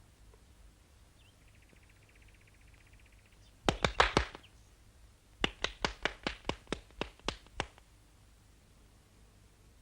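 A quick cluster of sharp taps, then a run of about ten evenly spaced taps, roughly five a second, slowing slightly toward the end.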